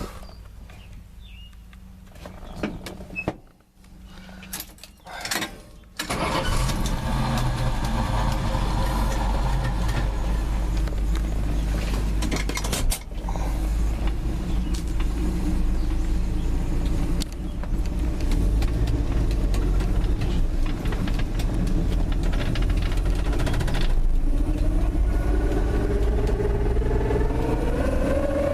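A few knocks, then about six seconds in a Dodge pickup's 225 slant-six engine starts and runs steadily, with a single clunk around the middle. Near the end the engine note rises steadily as the truck accelerates.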